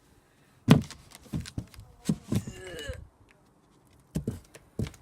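A series of irregular knocks and thumps, about seven hits, strongest about a second in, with a pause in the middle and two more near the end.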